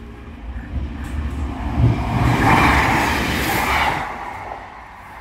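Two-car Class 158 diesel multiple unit passing close by. Its sound swells about a second in, is loudest for a couple of seconds, then fades near the end.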